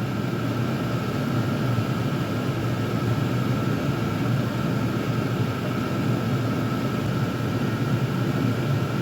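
Several Chinese diesel air heaters running together: a steady whoosh of their combustion and blower fans, with a low rumble and a thin steady whine above it.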